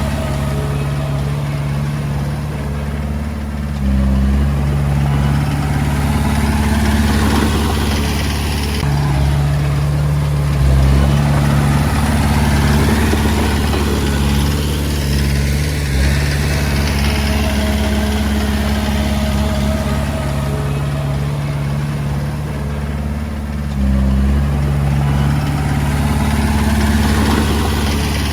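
Komatsu D20A bulldozer's diesel engine running steadily, its note and loudness shifting up and down a few times as the load or throttle changes.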